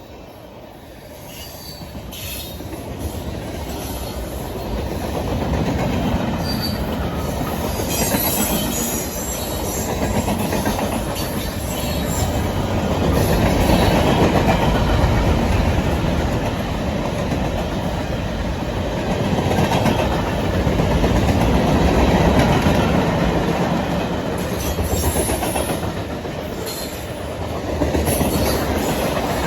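A train rolling past, its wheels and cars rumbling on the rails; the sound builds over the first several seconds as it approaches, then stays loud with slow swells as the cars go by.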